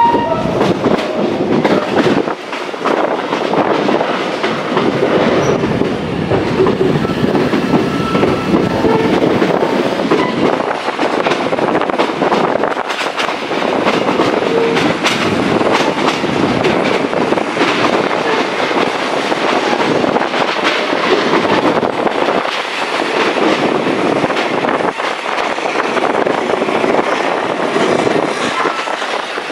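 SE19 passenger train running along a curving mountain line, heard from a coach window: steel wheels clattering over the rails, loud and steady.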